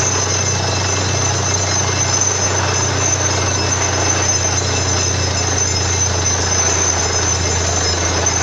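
Borewell drilling rig running steadily: a constant low engine hum under a broad mechanical noise, with no letup.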